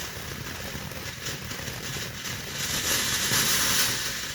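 A firework fountain hissing steadily, with no bangs; the spray swells louder about two and a half seconds in.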